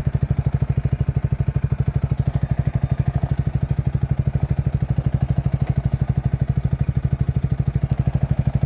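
Motorcycle engine idling with a fast, even exhaust beat, loud and deep, holding steady with no revving.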